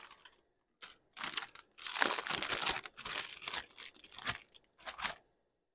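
Crinkling, crunching handling noise that comes and goes in several irregular bursts.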